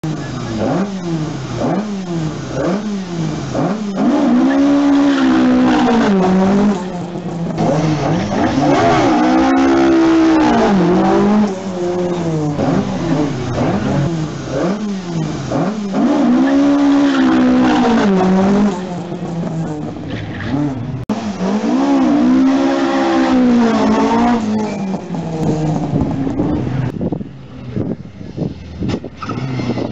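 Ford Escort rally car engines revving hard at full throttle. At first the pitch climbs in quick repeated rises through the gears, then comes a series of long loud surges that rise and fall in pitch. The sound is quieter near the end.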